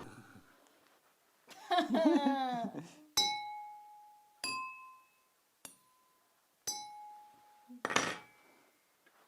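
Drinking glasses struck one at a time, four clinks, each ringing with a clear tone that fades; the second rings higher than the others. A voice glides up and down just before the first strike, and a short noisy burst comes near the end.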